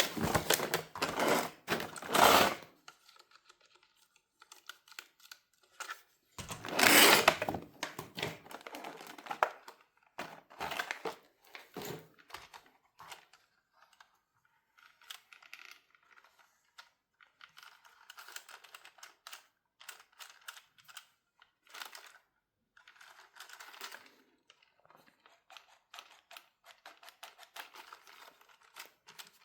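Plastic packaging crinkling and rustling in loud bursts at the start and again about seven seconds in, then many faint clicks and rustles of small objects being handled.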